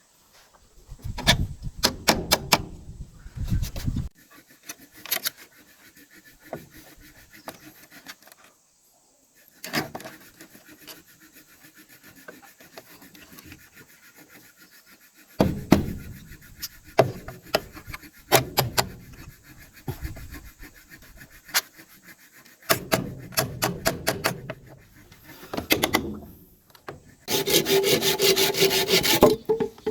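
Wood being worked by hand with tools: scattered knocks and scraping with pauses between, then a run of rapid sawing strokes near the end.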